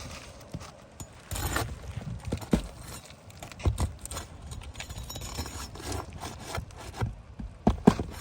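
Steel roofing flat bar prying and scraping under an asphalt shingle, breaking its sealant and working the nails loose: irregular scrapes and knocks, with a quick cluster of sharp knocks near the end.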